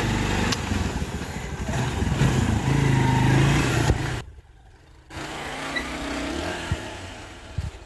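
Motorcycle engine running and revving up, rising in pitch about two to three seconds in, then cutting off abruptly about four seconds in. After a short dip it comes back softer, with a few sharp clicks near the end.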